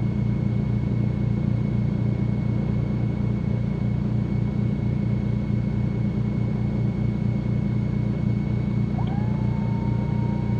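Cessna 310Q twin piston engines at low taxi power, a steady drone. About nine seconds in, a faint high tone rises and then holds steady over the drone.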